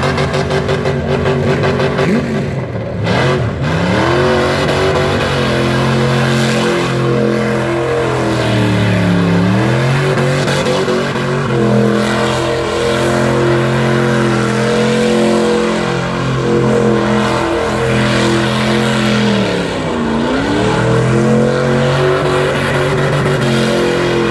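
Car engine held at high revs through a long tyre-smoking burnout. The revs drop and climb straight back up a few times, about three, nine and twenty seconds in.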